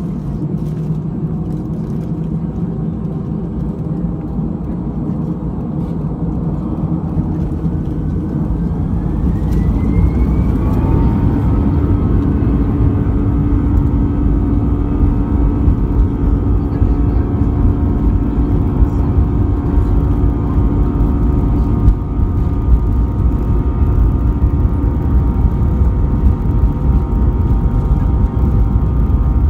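Airbus A320's CFM56 jet engines heard inside the passenger cabin, spooling up with a rising whine about eight to eleven seconds in, then running steady and louder with a deep rumble and several held whining tones, as when thrust is set for the takeoff roll.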